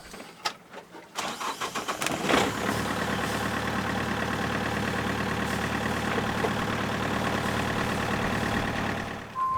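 A boat engine cranks for about a second, catches, and settles into a steady idle that runs for several seconds.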